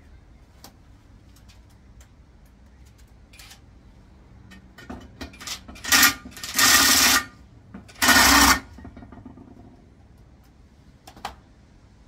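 Light clicks and knocks of metal parts and tools being handled during a manual gearbox teardown, broken by two loud, harsh noisy bursts about six and eight seconds in, the first about a second long and the second about half a second.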